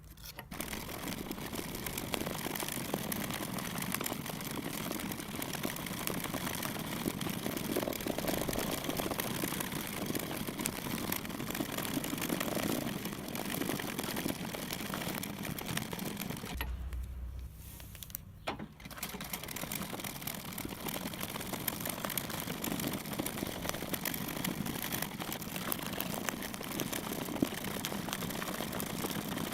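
Hand embroidery on fabric stretched in a hoop, sped up: the needle rapidly pierces the taut cloth and thread is drawn through, giving a dense run of fine ticks and rustling. It breaks off briefly about 17 seconds in.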